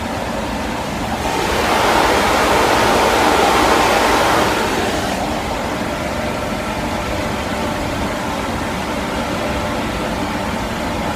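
Steam locomotive releasing boiler pressure: a long, loud hiss of escaping steam. It swells for a few seconds about a second in, then holds steady.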